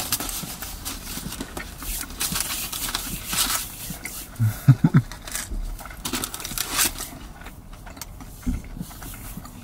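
Chewing a slice of crisp-crusted pizza: irregular crunching and mouth sounds, with a short voiced sound about halfway through.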